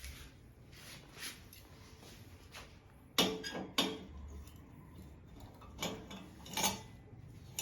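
A few sharp clicks and clanks, two close together about three seconds in and two weaker ones later, over faint background noise.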